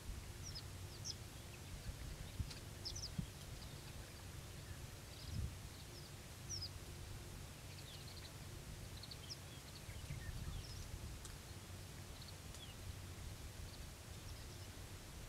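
Small birds giving short, high, mostly falling chirps here and there, over a steady low rumble with a few soft thumps.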